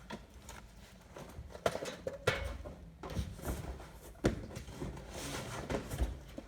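Toy boxes and packaging being handled and set down: a scattering of irregular knocks and bumps with some rustling in between.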